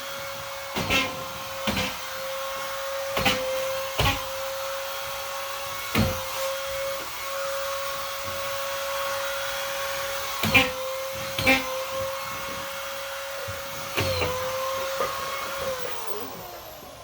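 Vacuum cleaner running with a steady whine and hiss, with sharp knocks now and then as it is pushed around; near the end its whine falls in pitch.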